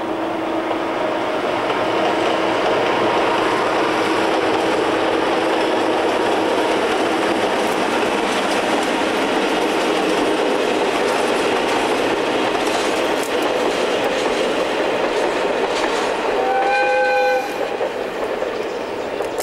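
Passenger train running across a stone arch bridge, a loud steady rumble of the wheels and coaches on the rails. Near the end the train's horn sounds once, for about a second.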